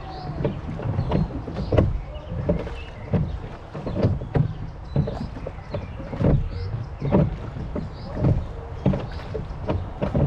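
Rowing boat on a river: oars splashing and knocking about once a second, with water lapping at the hull and small birds chirping.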